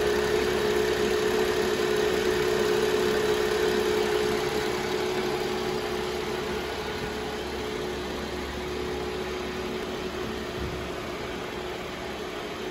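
Mercedes-Benz E240's V6 engine idling steadily, with an even mid-pitched hum over it, growing gradually quieter.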